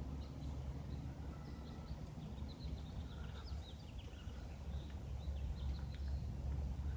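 Small birds chirping in quick, short notes, thickest in the middle, over a steady low rumble.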